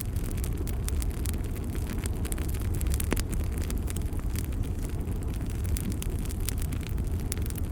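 Fire burning in a fireplace: a steady low rumble of flames with frequent sharp crackles and pops, one stronger pop about three seconds in.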